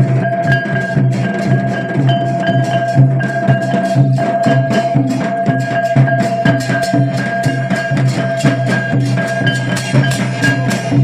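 Traditional Santali folk music: fast, even drumming with a steady held melodic tone over it.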